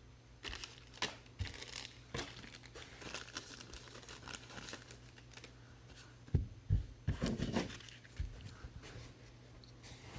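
Plastic wrapping on a trading card box being torn open and crinkled: irregular rustling and tearing, with a few louder soft knocks about six to seven seconds in.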